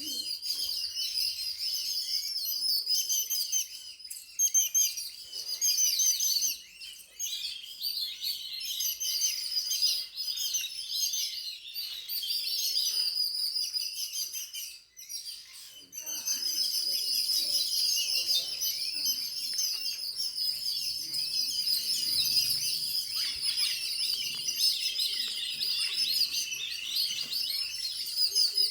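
Many small birds chirping together in a dense, continuous chatter of rapid high chirps, with a brief lull about fifteen seconds in.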